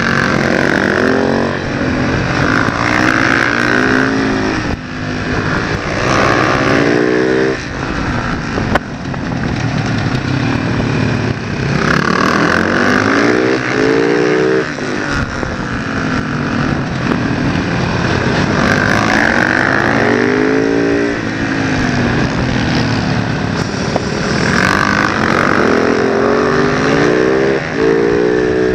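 Supermoto motorcycle engine heard from onboard, its revs climbing in pitch and then dropping again several times, as it accelerates out of the bends, changes gear and backs off for the next corner. Steady rushing noise lies underneath throughout.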